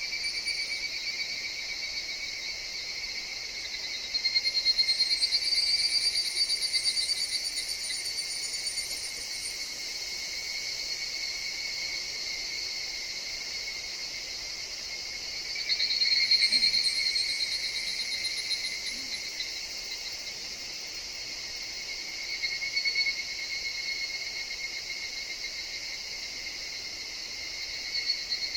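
Higurashi (evening cicadas) calling over a steady insect chorus: a loud rapid trill swells about four seconds in and trails off over several seconds, another comes about sixteen seconds in, and a short one near the end.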